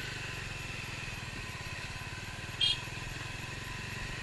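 Motorcycle engine running steadily, its low pulsing even throughout. A short high chirp cuts in once, about two-thirds of the way through.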